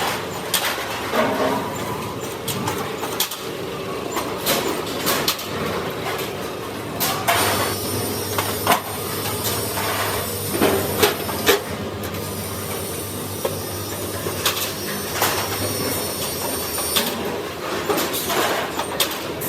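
Sheet-metal workshop sounds: irregular metallic clanks and knocks from work on a fuel tank, with a steady machine hum through the middle stretch.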